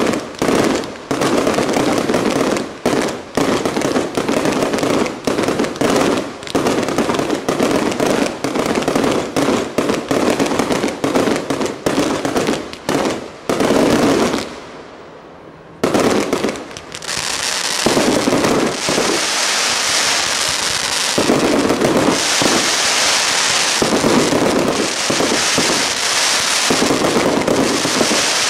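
Aerial fireworks display: shell bursts banging in rapid, overlapping volleys for about the first half, then, after a brief lull, a dense sustained crackling of crackling stars that surges again and again.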